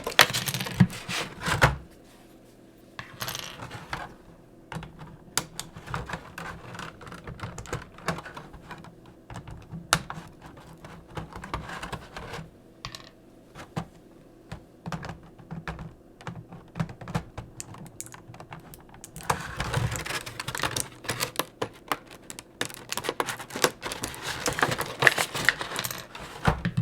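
Small hard plastic toy parts clicking and rattling as they are handled, with stretches of rustling, about a second at the start and again from about 19 s to near the end.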